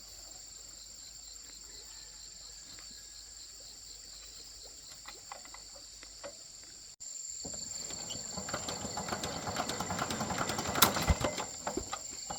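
Insects chirring steadily in high, even tones. After a cut about halfway through, a dense crackling and rustling with sharp snaps starts, loudest shortly before the end.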